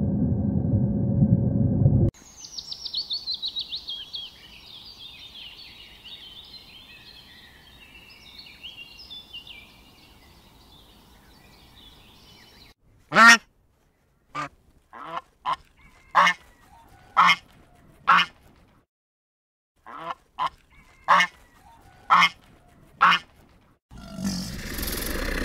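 Animal calls: a high, busy twittering for about ten seconds, then a series of about ten short, strong pitched calls roughly one a second. Near the end comes a loud, rough noisy sound.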